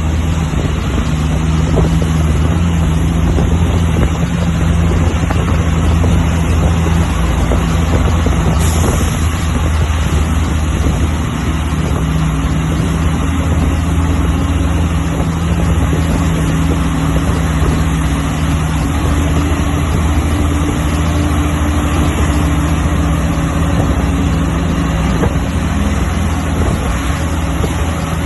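Heavy diesel truck engine running steadily under load, a low drone mixed with road and wind noise; its pitch creeps slightly higher about halfway through.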